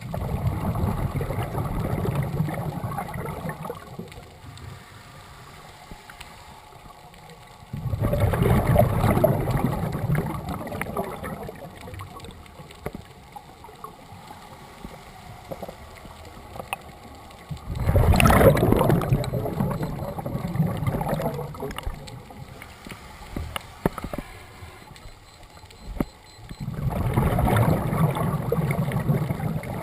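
A scuba diver breathing out through the regulator underwater: a rush of bubbles lasting a few seconds, about every nine to ten seconds, four times, with quieter stretches between breaths.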